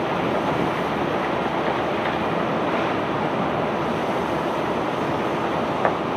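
Steady rushing noise of a self-unloading barge discharging cobblestones, with one short knock near the end.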